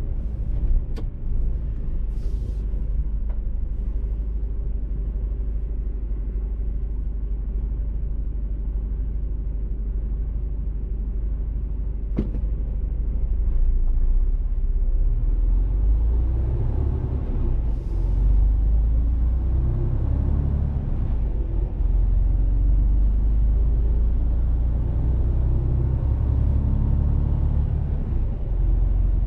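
Mercedes-Benz Actros truck driving, its engine and road noise a steady low rumble that grows louder about halfway through, with the engine note rising and falling. Two short hisses of air come early and again about two-thirds of the way in.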